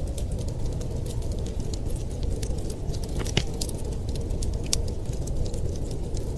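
Wood fire crackling in a fireplace, with irregular sharp pops and snaps, over a steady low rumble of wind.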